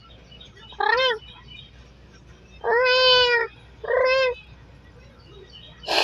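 A person imitating a cat: three meows, the middle one the longest, each a single pitched call that bends down in pitch at its end.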